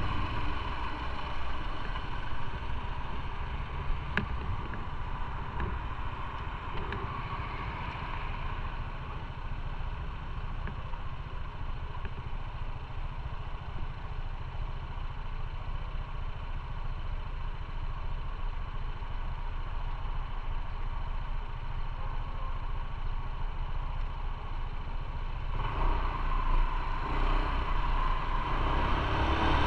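Motorcycle engine running on the move, with road and wind noise; it grows louder near the end.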